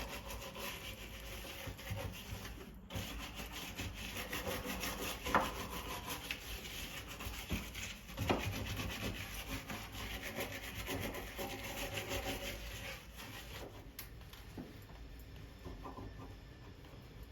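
Continuous scrubbing with quick back-and-forth strokes, as in cleaning a surface by hand. There is a brief pause about three seconds in, and a couple of light knocks.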